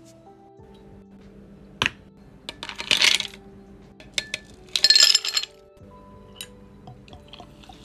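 Small hard pieces clinking into a glass: a sharp single click, then two short bursts of bright clinking about two seconds apart and a few light ticks, over soft background music.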